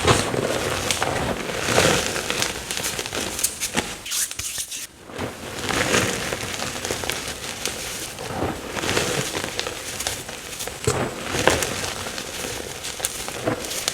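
Blocks of plain chalk being crushed and crumbled by hand, a dense crackling crunch with louder snaps every second or two and a short lull about four seconds in.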